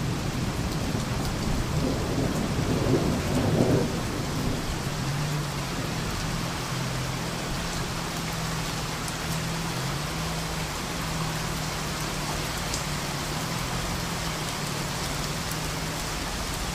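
Rain falling steadily on wet ground and leaves during a thunderstorm. Low thunder rumbles through the first few seconds, then fades out, leaving the steady hiss of the rain.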